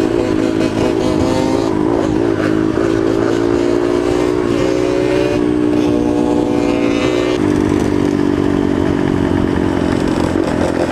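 Yamaha TT-R125 dirt bike's single-cylinder four-stroke engine running under way, its pitch rising and falling with the throttle, with a change in its note about seven seconds in.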